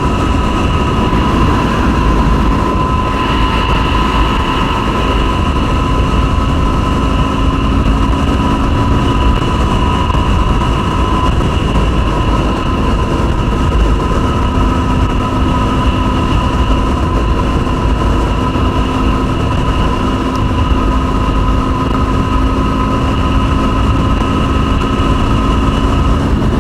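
Yamaha WR250R's single-cylinder engine running at a steady cruising speed, with wind rushing over the microphone. It holds a constant, unchanging drone throughout.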